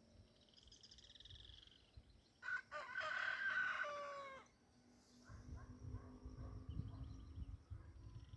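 A rooster crowing once, a call of about two seconds that falls in pitch at the end. Before it comes a fast trilling call, and after it a low rumble.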